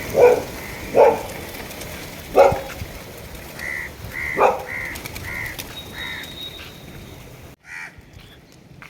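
Crows cawing: four loud, harsh caws in the first four and a half seconds. Between them runs a second bird's string of shorter, higher calls, about two a second.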